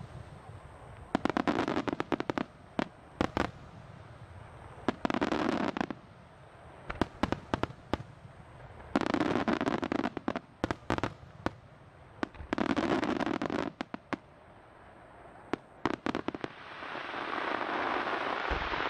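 Fireworks heard from a distance: clusters of sharp bangs and pops from bursting shells, several followed by about a second of dense noise, coming in repeated waves. Near the end a longer hiss swells up as a row of ground fountains fires.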